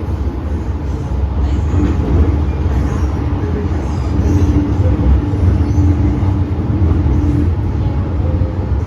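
MTR M-train electric multiple unit running on the Tsuen Wan Line: a steady low rumble from the wheels and track, with a steady motor hum for a few seconds in the middle.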